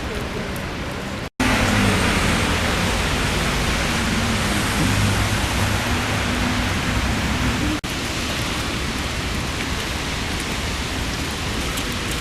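Steady hiss of heavy rain, cut off abruptly twice: about a second in and near eight seconds. Between the cuts it is louder, with a low hum under it.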